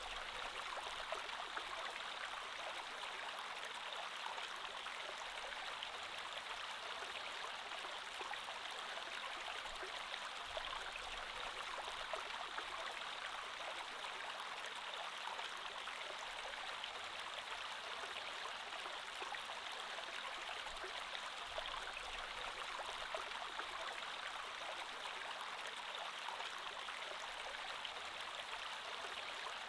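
Creek water flowing steadily over rocks, an even rushing with fine splashing and trickling.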